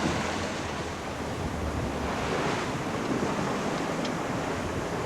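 Water rushing past the hull of a sailing yacht moving fast, with wind buffeting the microphone; the noise swells and eases slightly.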